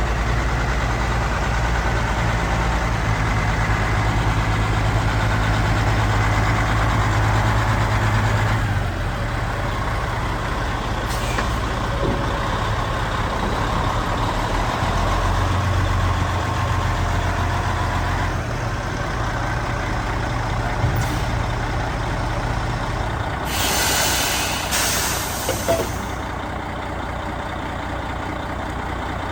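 Caterpillar C12 inline-six diesel in a Kenworth T600 tractor running steadily, its note shifting a couple of times. Near the end come two loud hisses of released air from the truck's air brake system.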